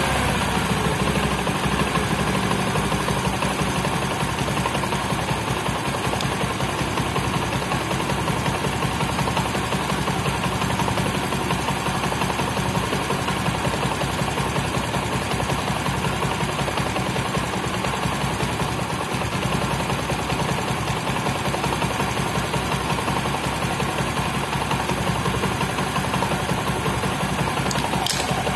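Bajaj Discover motorcycle's single-cylinder four-stroke engine idling steadily while its carburettor idle screw is being adjusted to set the idle speed.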